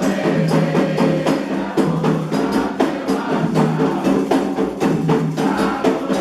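Candomblé ritual music: atabaque hand drums and an agogô bell playing a fast, steady rhythm under sustained sung voices.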